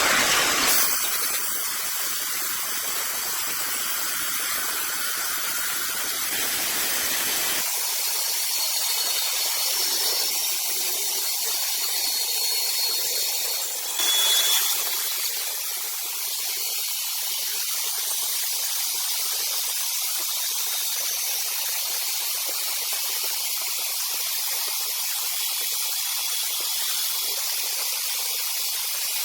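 A sawmill saw cutting through a rosewood log, heard as a steady high hiss. The lower rumble drops away about seven seconds in, and there is a brief louder surge around fourteen seconds.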